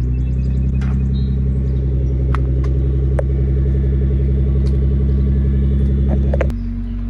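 Car engine idling steadily, with a few sharp clicks over it; the sound changes abruptly near the end to a quieter, steadier hum.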